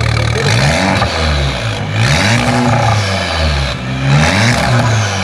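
A car engine idling, then revved three times, each rev rising in pitch and falling back to idle.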